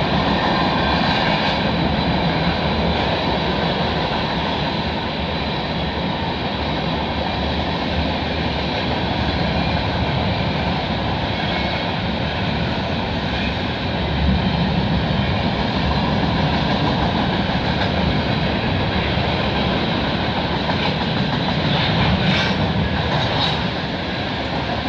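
Tank cars of a CN freight train rolling past, their steel wheels on the rails making a steady rumble and rushing noise, with a few clicks near the end.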